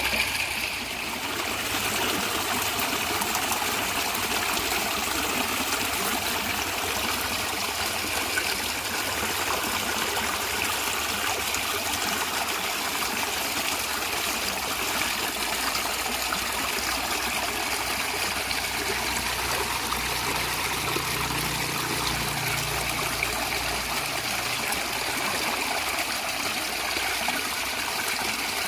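Natural stream of water flowing and gurgling steadily, a continuous trickling rush.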